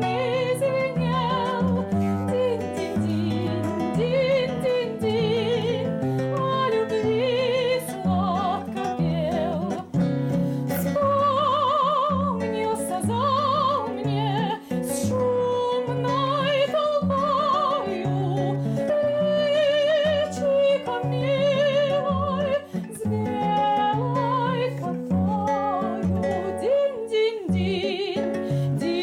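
A trained female voice singing a romance with a wide vibrato, accompanied by a plucked acoustic guitar.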